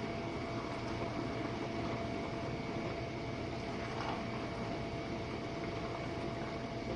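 Jenn-Air dishwasher running its Quick Wash cycle: a steady motor hum with a thin whine over the even rush of water inside the tub.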